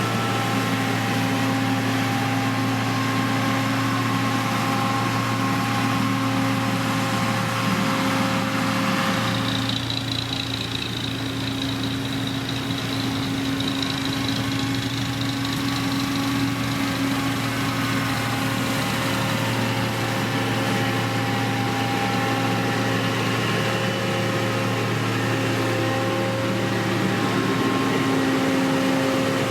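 Diesel engine of heavy road-construction machinery running steadily, the engine note changing about a third of the way in.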